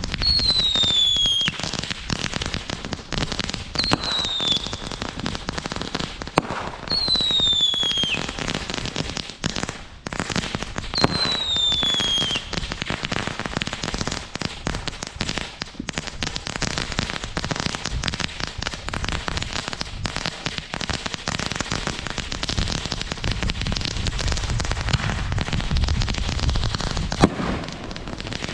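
Fireworks going off: a dense run of crackles and bangs, with four shrill whistles in the first half, each falling slightly in pitch over about a second.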